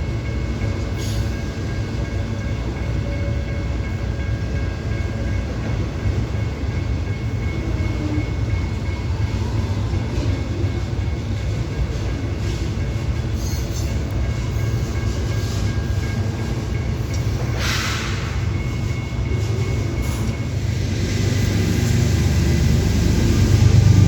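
Freight train's cars rolling past with a steady low rumble, with thin high steady tones above it. The rumble grows louder near the end.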